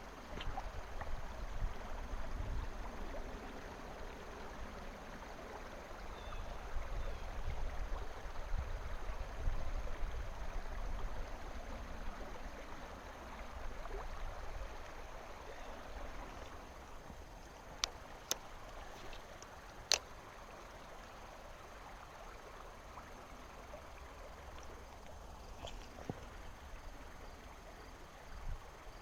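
River water running steadily, with a few short, sharp clicks about two-thirds of the way through.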